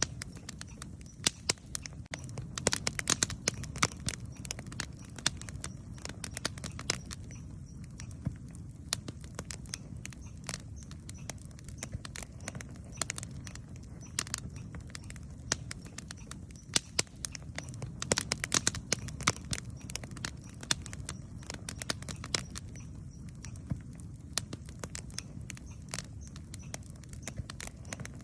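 Campfire crackling: wood popping and snapping in irregular sharp clicks over a steady low rumble, with busier runs of pops about three seconds in and again past the middle.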